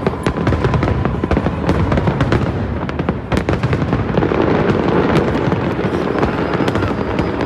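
A dense barrage of aerial fireworks: many shells bursting at once, rapid sharp cracks and crackling over a continuous low rumble.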